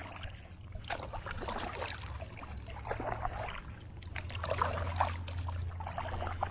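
Paddle strokes in water, a splash and trickle about once a second, over a steady low rumble.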